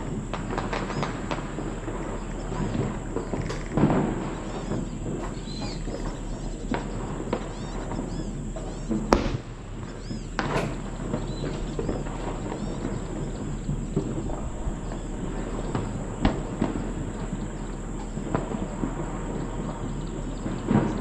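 Outdoor ambience: a dense rumbling noise with scattered sharp knocks and thuds, the loudest a little after 9 seconds in, and faint high bird chirps in the first few seconds.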